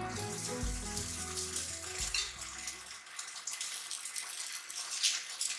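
Chicken tsukune sizzling as they fry in a pan, under soft background music that stops about three seconds in.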